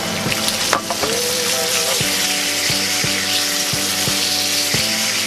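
Sliced tomatoes and peppers sizzling in hot oil in a frying pan with onions, while a spatula scrapes and knocks against the pan every half second or so as they are stirred.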